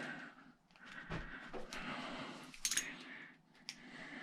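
Light metallic clicks and clinks of a hand driver working at a stubborn, stripped security screw. There are single clicks about a second in and near the end, and a quick run of several clicks a little past the middle.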